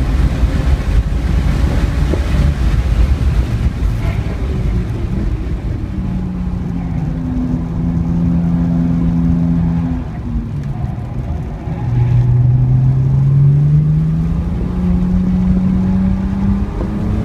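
BMW 335i's turbocharged inline-six heard from inside the cabin at speed, over heavy wind and road rumble. The engine note holds steady, falls away briefly about ten seconds in as the car lifts for a bend, then rises in pitch as it accelerates out of the corner.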